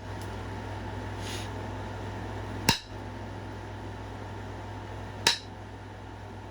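Flintknapping: two sharp clicks about two and a half seconds apart as flakes snap off the edge of a stone point being thinned, over a steady low hum.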